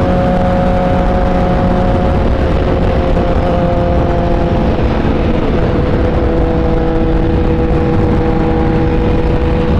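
Kawasaki Ninja H2's supercharged inline-four running at a steady cruise on the road, its pitch easing gently lower, over heavy wind rush on the microphone.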